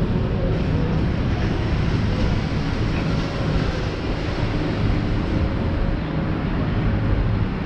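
Steady outdoor street ambience with a continuous low rumble, much like passing traffic.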